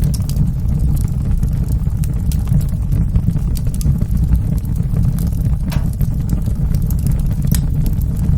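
Wood fire burning in a fireplace: a steady low roar of flames with scattered crackles and pops, a couple of sharper pops near the end.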